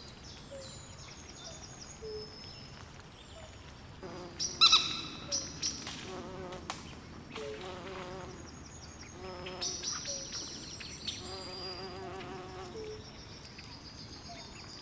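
Swamp chorus at night: frogs calling in short, repeated pulsed croaks and trills, with many brief high chirps over a faint steady hiss. One louder call stands out about four and a half seconds in.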